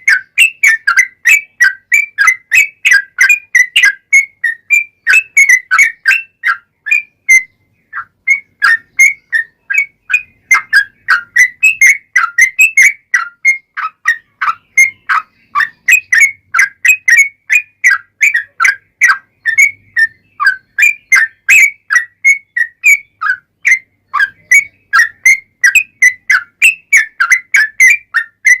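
Yellow-vented bulbul (trucukan) in full song, a long unbroken run of quick chirping notes, several a second, with one short pause about seven or eight seconds in.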